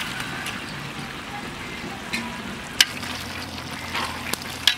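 Boiled jackfruit pieces tipped from a steel bowl into a large metal pot of frying masala, then stirred with a metal slotted spoon: a steady sizzle, with sharp clicks of the spoon on the pot about three seconds in and near the end.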